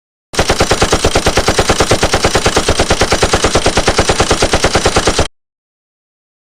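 Rapid automatic gunfire, about eight shots a second in one continuous burst of about five seconds, that starts and cuts off suddenly.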